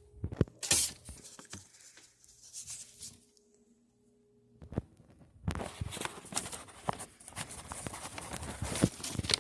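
Handling noise: a few sharp clicks and knocks, a pause of near silence, then a busy run of clicking and rustling from about halfway through.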